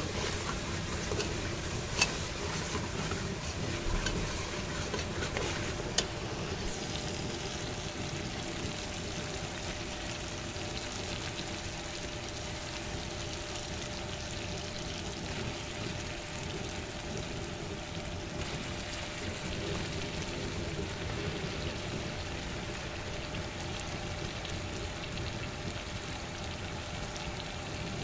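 Onion masala sizzling in oil in an open metal pressure-cooker pot over a burner, stirred with a metal ladle that knocks sharply against the pot a couple of times in the first six seconds.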